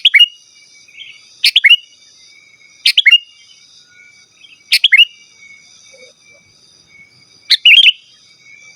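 Sooty-headed bulbul (kutilang) calling: five short, loud bursts of a few quick whistled notes, spaced about one and a half to three seconds apart. A faint, steady, high buzz sits underneath.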